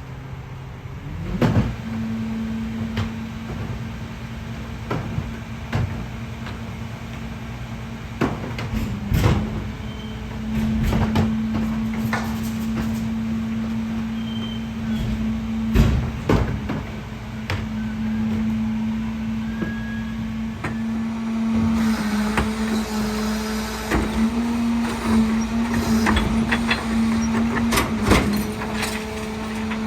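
Peterbilt 520 garbage truck with a Heil DuraPack 5000 rear loader at work: a steady engine hum that rises to a higher speed about a second and a half in and holds, with repeated metal clanks and bangs throughout, busier near the end.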